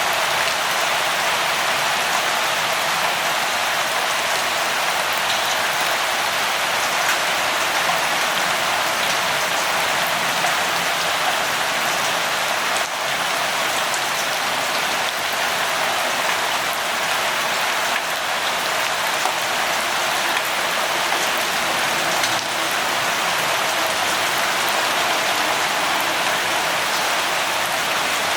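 Steady light rainfall, an even hiss with scattered drops pattering on a surface.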